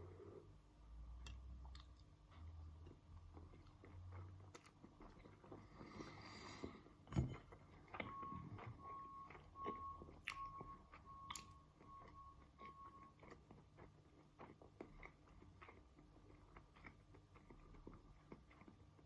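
Faint chewing and biting while eating a tofu and couscous dish, with scattered small clicks and a sharper knock about seven seconds in.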